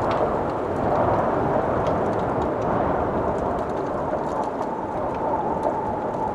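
Snowstorm wind blowing steadily, with a faint whistle that sets in about two-thirds of the way through. Scattered small pops and snaps of a crackling wood fire sound over it.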